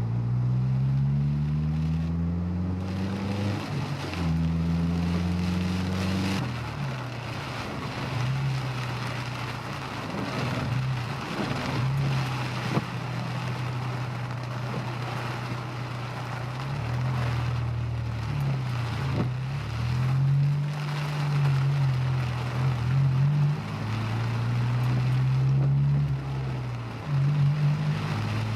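Honda S2000's four-cylinder engine heard from inside the car, climbing in pitch and dropping back at each gear change in the first several seconds, then rising and falling with the throttle. A steady hiss of road and wind noise from driving in heavy rain runs underneath.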